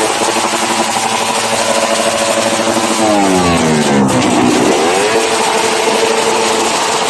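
Tuned motorcycle engines held at high revs in a revving contest; about three seconds in one engine's pitch drops steeply, then climbs back up about a second later while another keeps running at a steady pitch.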